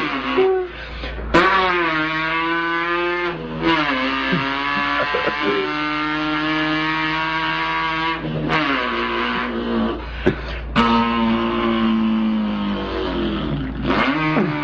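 A man's voice imitating an import sports car's engine: a buzzing, engine-like drone held at steady pitches, broken several times by short breaks and pitch drops like gear changes before it climbs again.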